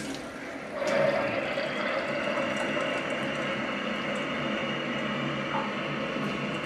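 Steady rushing of water through the plumbing, starting about a second in and holding even: the supply turned on, charging the lines into a newly installed electric water heater.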